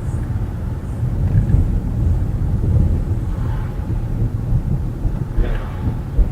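Steady low rumble of a car on the move: engine and road noise picked up by a dash cam.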